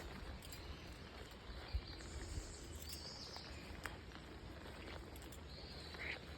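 Footsteps on soggy, waterlogged ground in quiet outdoor ambience, with a few short, high bird calls and a low thump a little under two seconds in.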